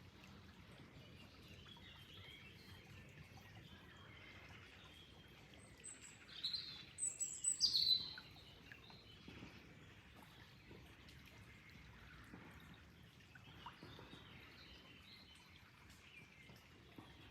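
Wild birds chirping and calling, with a short run of louder, high, sharp chirps about six to eight seconds in, over a faint steady hiss of flowing water.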